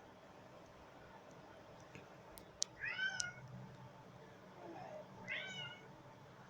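A cat meowing twice, about two and a half seconds apart, each a short high meow.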